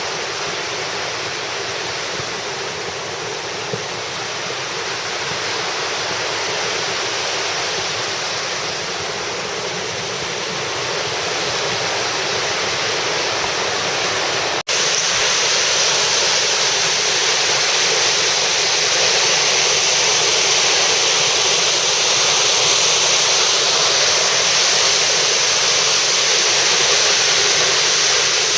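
Steady rushing roar of a waterfall. About halfway it breaks off for an instant and comes back a little louder and brighter.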